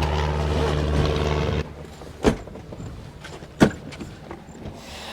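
A steady low mechanical hum cuts off abruptly about a second and a half in. Then it is much quieter, with two sharp clicks or knocks about a second apart.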